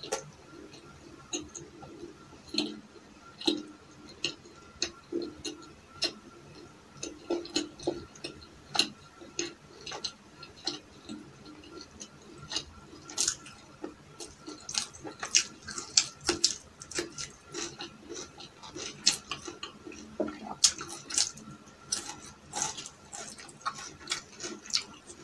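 Close-miked eating sounds: irregular wet chewing clicks and lip smacks while eating chicken curry and flatbread by hand, getting busier about halfway through.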